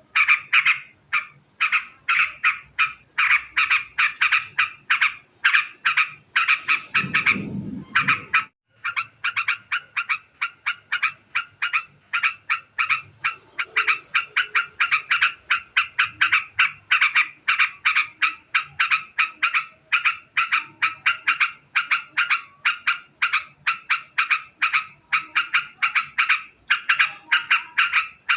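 Yellow-vented bulbul (trucukan) singing its long, very fast chattering song: notes repeated several times a second with barely a break. A brief low rumble comes about seven seconds in, just before a short pause.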